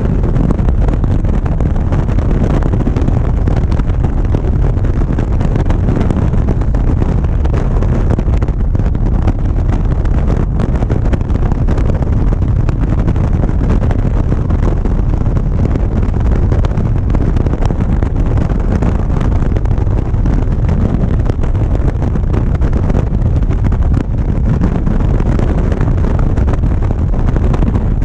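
Motorcycle cruising at a steady speed, its engine rumble mixed with heavy wind rush on the microphone.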